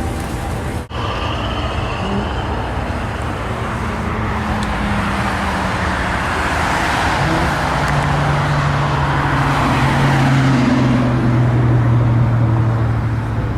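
Lamborghini Gallardo LP 560-4 Spyder's V10 engine running while the car is driven, with road and wind noise. About seven seconds in the engine note turns deeper and louder and then sinks slowly in pitch; a brief dropout about a second in.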